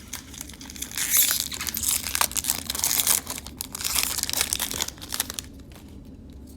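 Foil wrapper of a Magic: The Gathering Core Set 2020 booster pack crinkling and tearing as it is opened by hand. The rustling starts about a second in and stops about five seconds in.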